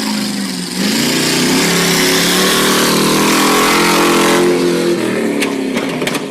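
A vehicle engine revving hard, its pitch climbing slowly for a few seconds before it eases off, with a couple of sharp knocks near the end.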